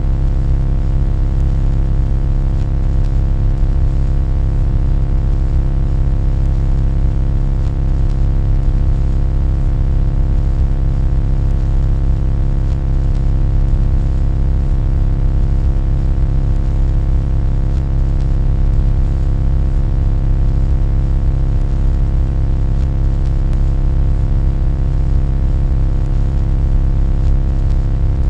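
A loud, steady low hum with a buzzy stack of overtones, unchanging throughout.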